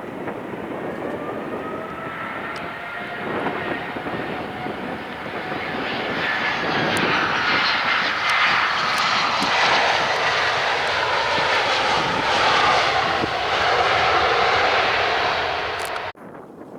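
Jet airliner's engines passing close by, a loud rush with a whine that slowly falls in pitch as it swells, then cuts off suddenly near the end.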